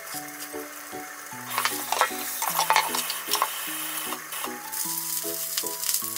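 Eggplant pieces sizzling in oil in a frying pan, with sharp crackles. The sizzle grows louder about a second and a half in. Background music plays throughout.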